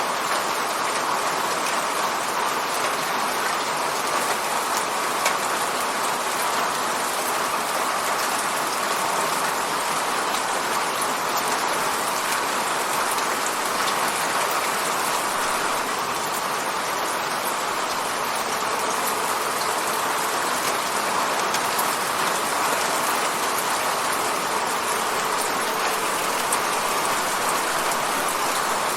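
Steady rain falling and pattering against a window, an even hiss with scattered small drop ticks.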